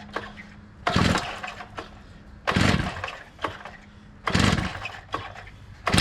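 Gas two-stroke cut-off saw (quickie saw) being pull-started: four hard pulls of the recoil starter about every second and a half, the engine cranking without catching. The saw has sat unused for years and is being started with the choke on and the throttle held wide open.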